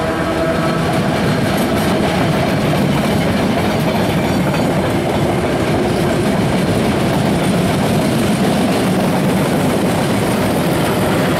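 London Underground engineering train of flat wagons running past close by, a steady loud rumble and clatter of steel wheels on the rails, with a battery locomotive at the rear coming past near the end.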